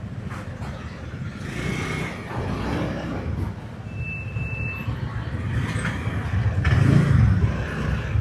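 Motorbike ride road noise: a steady low rumble of engine, tyres and wind that swells louder twice, most strongly about seven seconds in. A brief high beeping tone sounds near the middle.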